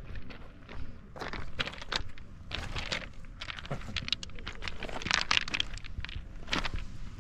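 Footsteps of a person walking, a step sounding every half second to a second or so.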